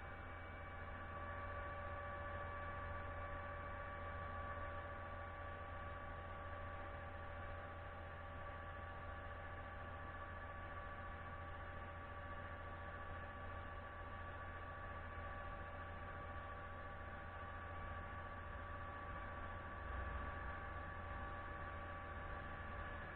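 Steady machine hum from a concrete pump truck: a constant low drone with several steady whining tones above it, unchanging throughout.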